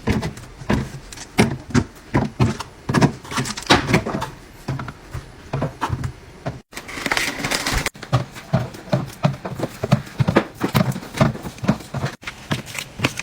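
Containers and groceries knocking and clattering as they are handled and set down while a refrigerator is restocked, in short clips that cut off abruptly. A brief hiss comes about seven seconds in.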